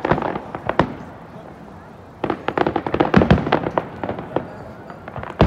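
Aerial fireworks bursting and crackling: dense rapid crackles come in two spells with a short lull between, and a few deeper booms sound about three seconds in and again near the end.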